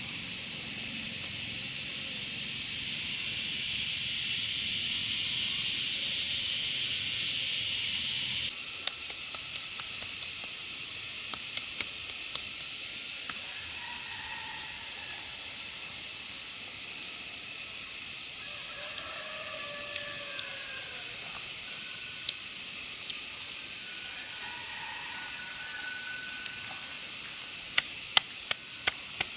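Steady high-pitched insect drone, with scattered sharp knocks: a run about 9 to 12 seconds in and a cluster near the end. Faint sliding calls around the middle.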